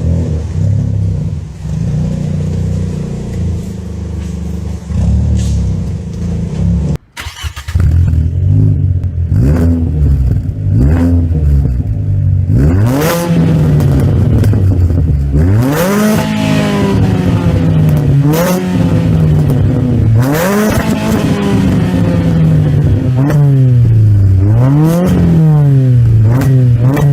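Fiat Panda 100HP's 1.4-litre naturally aspirated four-cylinder engine running at a steady speed, then, after a brief break about seven seconds in, revved up and down again and again.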